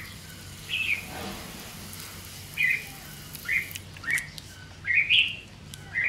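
A bird chirping repeatedly: short, sharp chirps that rise in pitch, about seven of them, roughly one a second. A faint hiss of water spray on soil sits under the first second or so.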